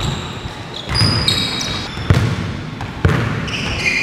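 Basketball dribbled on a hardwood court, a dull thump about once a second, with sneakers squeaking on the floor.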